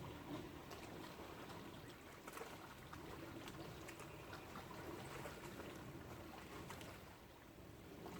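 Faint lapping and trickling of lake water, with scattered small clicks and splashes.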